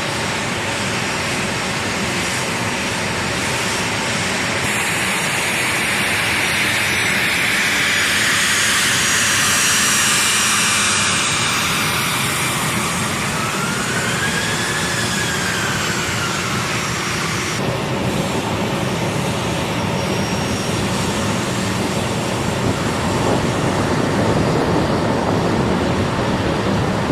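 Jet aircraft engines running loud and steady, a roar with a high whine that rises and then falls in pitch near the middle. The sound changes abruptly twice, as the footage cuts between shots.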